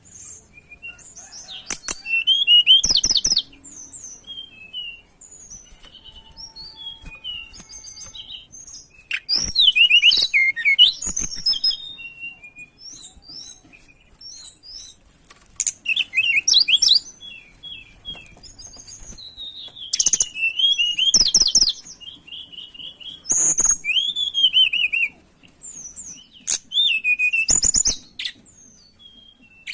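Tledekan gunung songbird singing: loud, rapid twittering phrases of quick rising and falling notes, a burst every few seconds with softer chirps between. It is a recording used as a lure (pancingan) and tutor (masteran) to get captive birds to answer and sing.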